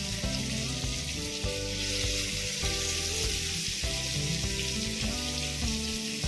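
Chicken kebab pieces deep-frying in hot oil, a steady sizzle, with background music of held notes underneath.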